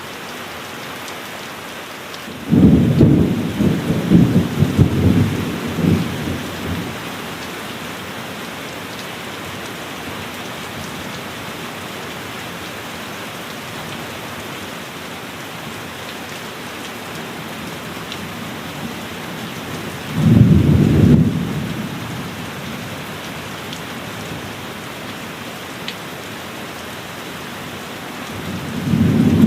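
Steady heavy rain with thunder: a long crackling peal of thunder about two and a half seconds in that rumbles on for several seconds, a shorter deep clap about twenty seconds in, and another rumble building near the end.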